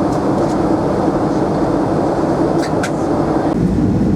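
Steady cabin noise of a Boeing 767-400ER airliner on approach: engine and airflow running, heard from inside the cabin. The noise turns deeper about three and a half seconds in.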